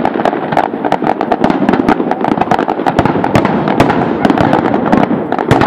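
Fireworks display: aerial shells bursting over and over in a dense, unbroken crackle of pops and bangs.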